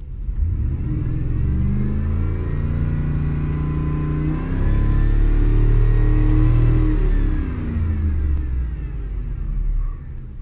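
2007 Ford F-150 XLT pickup engine being revved: the pitch rises and holds, climbs higher for a couple of seconds, then drops back toward idle near the end. It is being revved to warm it up after sitting unstarted for a few months.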